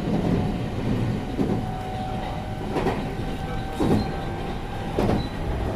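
Running sound inside a JR West 223 series electric train's motor car: a steady rumble of wheels on rail with a faint steady whine, and three thumps about a second apart in the second half as the wheels cross rail joints.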